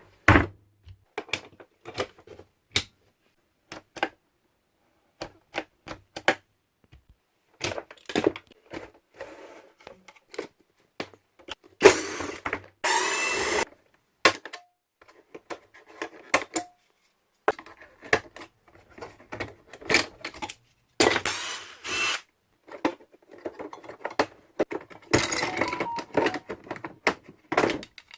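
A Miele vacuum cleaner being taken apart: scattered clicks and knocks of its plastic casing and parts being handled, with three short whirring runs of a power tool.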